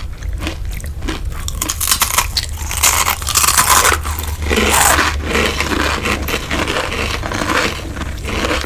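Close-miked eating sounds: a run of chewing, crunching and scraping noises. The densest patch comes a little before the middle. A steady low hum runs underneath.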